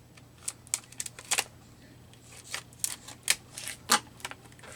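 Irregular sharp clicks and rustles of hands prying at a plastic part on a bird-song sound book, which is stuck and won't come off.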